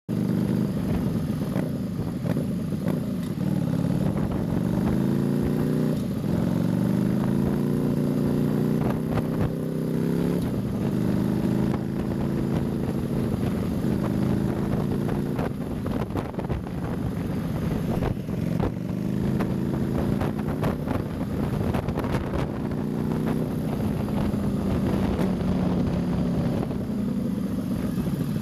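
Harley-Davidson Nightster 1200 V-twin engine under way, pulling up in pitch through the gears and dropping back at each shift, several times over.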